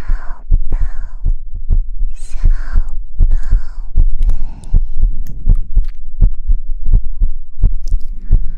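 Rhythmic soft low thuds close to the microphone, with breathy hushing sounds about once a second in the first half and again near the end.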